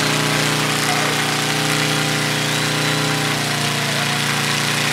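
Motorcycle engine running at a steady, held speed.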